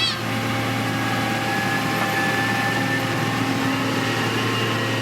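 Diesel engine of a heavy road-construction machine running steadily: a constant low hum with faint steady whining tones above it.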